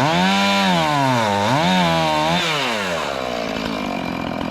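Two-stroke chainsaw running at high revs, its engine pitch rising and falling several times, then dropping back to a low idle near the end.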